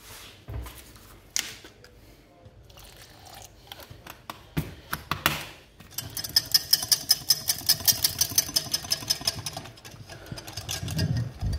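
A few clinks and knocks, then from about six seconds in a utensil beats rapidly against a bowl, about five clicks a second for some four seconds, mixing milk into a butter-and-flour roux.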